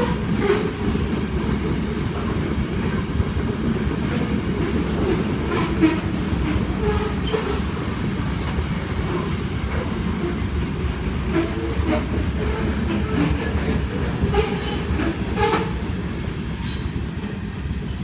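Freight train cars of a grain train rolling past: a steady rumble of wheels on rail with scattered clicks and clanks. Two sharper metallic clanks come about three-quarters of the way through.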